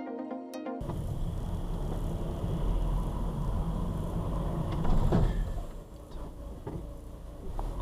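Short burst of electronic music that cuts off about a second in, then a car's steady low road-and-engine rumble as heard inside a moving car, with a brief louder swell about five seconds in.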